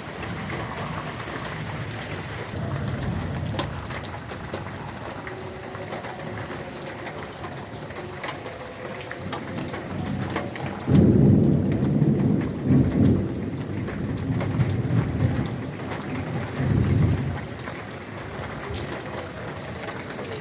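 Heavy rain falling steadily. About halfway through, a long low rumble of thunder rolls in several loud peaks for some six seconds.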